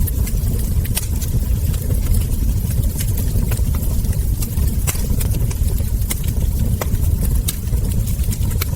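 Wood fire crackling, with frequent sharp pops and snaps over a steady low rumble of burning logs.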